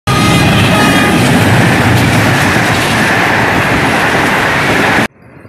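Passenger train passing at close range: loud, steady rumble and rattle of wheels on rails, cutting off suddenly about five seconds in.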